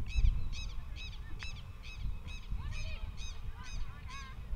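A bird giving a rapid series of short, repeated calls, about three a second, over a low rumble.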